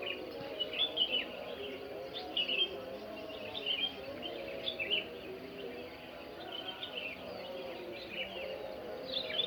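Small birds chirping in short, repeated phrases, one every second or so, over a continuous, lower-pitched wavering background sound.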